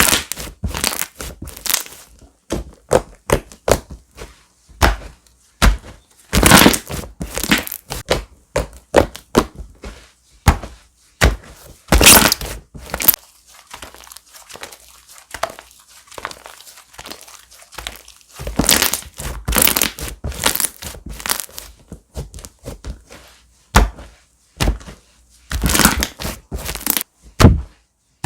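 Slime being squeezed, pressed and poked by hand, giving irregular sharp pops and crunchy crackles, with denser runs of crackling several times.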